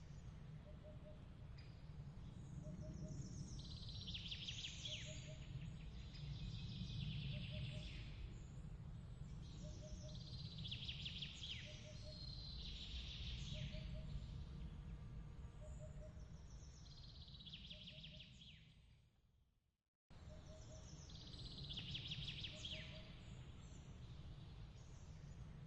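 Faint night-time nature ambience: repeated high chirping runs every few seconds and a soft short double chirp about once a second, over a low steady rumble. It fades out and cuts straight back in about 20 seconds in, where the recording loops.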